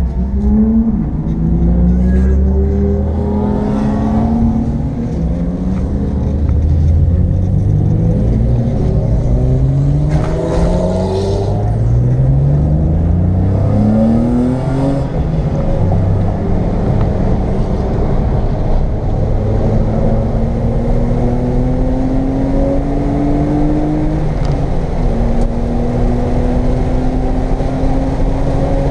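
1995 BMW M3's straight-six engine, heard from inside the cabin, accelerating up through the gears: the revs climb and drop back again and again as it shifts up. Later comes a longer, slower climb that drops at a shift near the end. There is steady road and wind noise throughout.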